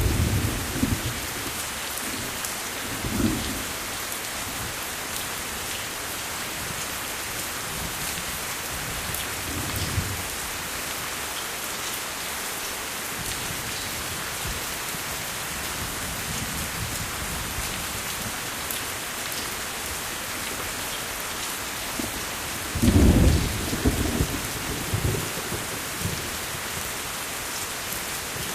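Steady rain falling in a thunderstorm, with low rolls of thunder rumbling several times; the loudest, longest roll comes about four-fifths of the way through.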